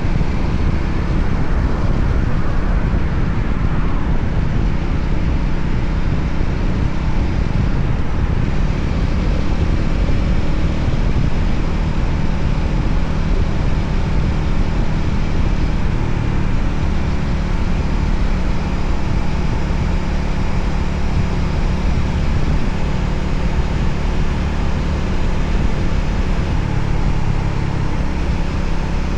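Voge 300ACX motorcycle's single-cylinder engine running steadily under way, with wind and road noise.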